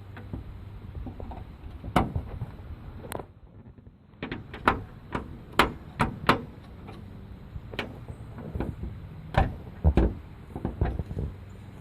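Irregular sharp clicks and knocks of metal parts being handled, as the hood latch of a pickup is worked and the hood is raised, about a dozen strikes spread unevenly over a low steady background hum.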